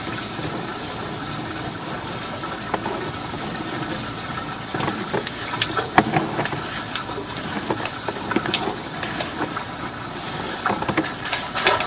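A steady engine-like hum, with scattered clicks and knocks that get busier about halfway through, as a sewer inspection camera's push rod is fed through a drain line.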